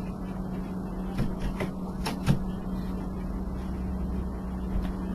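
A steady low hum, with a few short knocks and clicks between about one and two and a half seconds in.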